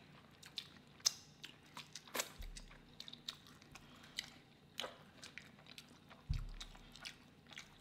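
Close-up chewing and wet mouth sounds of eating a burrito and a rice bowl, with scattered small clicks and smacks. Two dull low thuds come in, about two and a half seconds and six seconds in.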